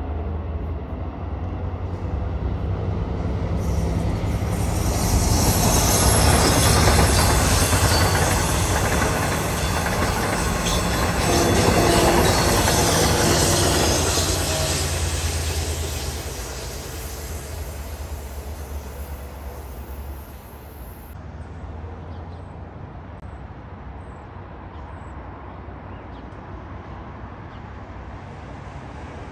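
Long Island Rail Road bilevel passenger train passing, a steady low drone under the rushing rumble of its wheels on the rails. It builds to a peak about five seconds in, stays loud until about fourteen seconds in, then fades away, leaving a quieter steady background for the last several seconds.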